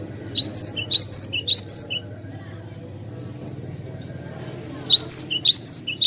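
Cinereous tit (glatik batu) singing: two bursts of quick, sharp chirping notes about four seconds apart, over a low steady background hum.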